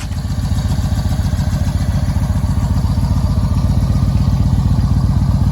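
Big V-twin motorcycle engine running steadily with an even low pulsing beat.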